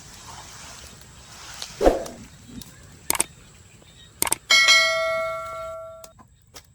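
A short thump about two seconds in, two sharp clicks, then a bell-like ding struck once, ringing with several tones and fading out over about a second and a half.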